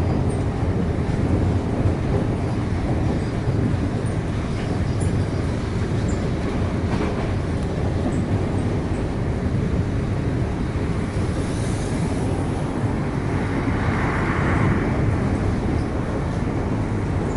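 Suburban electric train running along the track, heard from aboard: a steady rumble of wheels and carriage, with a brief louder hiss about three-quarters of the way through.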